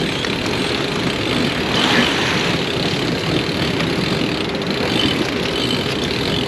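Steady rushing noise of wind and sea on a sailing yacht underway, with no clear rhythm or distinct events.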